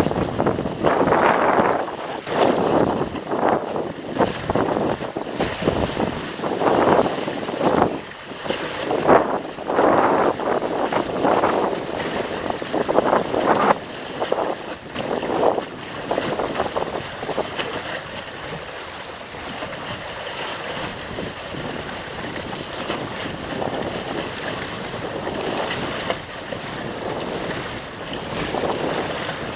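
Strong wind buffeting the microphone and water rushing against the hull of a sailboat under way. The sound comes in uneven gusting surges for the first half, then settles to a steadier rush.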